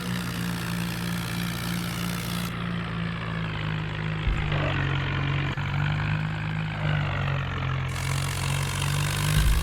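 Farmtrac tractor's diesel engine running steadily.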